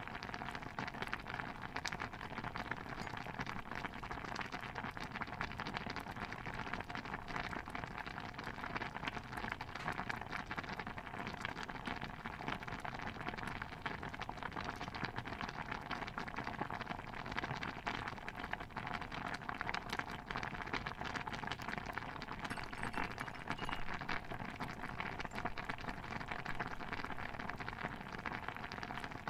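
Layered kitchen ambience soundscape: a steady, dense patter of many small pops and crackles that never breaks or stops.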